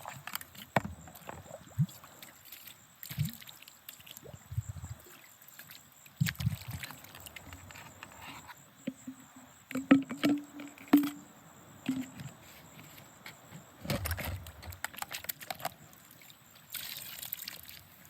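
Water sloshing in a gold pan, with small clinks and knocks of gravel concentrate as it is tipped out and washed. A couple of sharper knocks come about ten and eleven seconds in.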